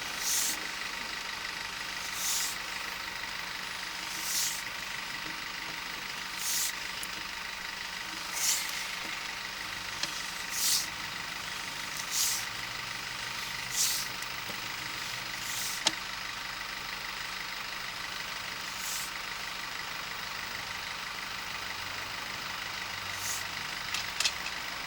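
Sewer inspection camera push cable being pulled back out of the line, with a short hissy swish about every two seconds over a steady machine hum.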